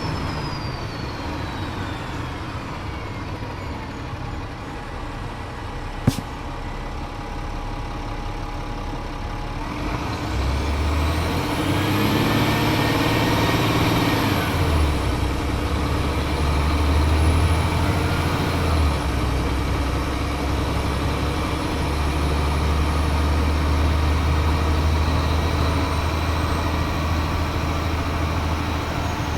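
2007 Gillig Advantage transit bus with its Cummins ISL straight-six diesel and Voith DIWA automatic transmission: slowing for the first few seconds with a falling whine, a sharp click about six seconds in, then pulling away under throttle with a rising whine. It shifts up around fourteen seconds and runs on steadily.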